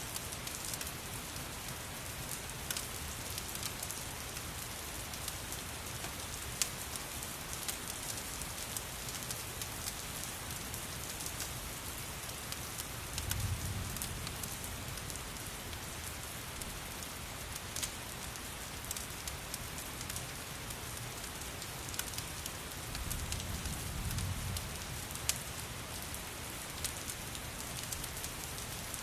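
Steady rain with the sharp pops and crackles of a wood fire scattered through it, and two low rumbles, one about halfway through and one near the end.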